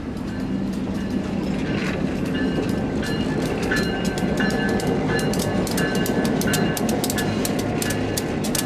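Ex-Duluth Missabe & Iron Range SD-M diesel locomotive, rebuilt from an EMD SD9, running along the track with a steady engine hum. Rapid clicking from the rails picks up about two seconds in, with a short ringing tone repeating under it.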